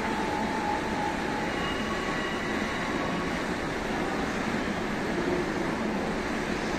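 Electric commuter train running through the station tracks at a distance: a steady rail rumble, with a few faint, brief high squeals from the wheels in the first few seconds.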